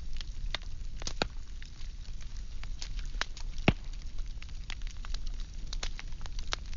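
Firewood burning in a steady crackle: irregular sharp pops and snaps over a low rumble of flame, with one louder pop a little under four seconds in.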